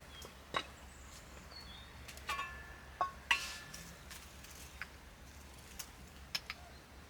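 Scattered sharp clicks and clinks, the loudest about two to three and a half seconds in with a short metallic ring, over faint bird chirps.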